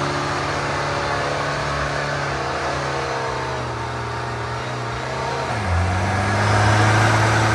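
Off-road 4x4 engine running steadily, its note dropping in pitch and getting louder about five and a half seconds in, as under load in mud.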